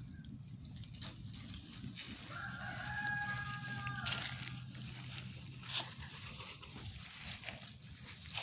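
Rooster crowing once, a single pitched call of about two seconds starting a couple of seconds in.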